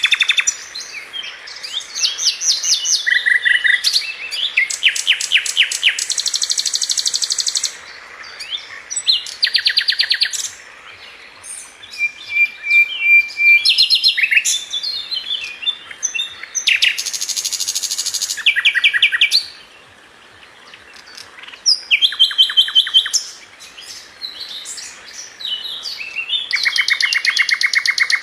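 A flycatcher of the kind sold in Indonesia as 'sikatan London' singing: bursts of rapid, high trills and chattering notes, each a second or two long, with short pauses between.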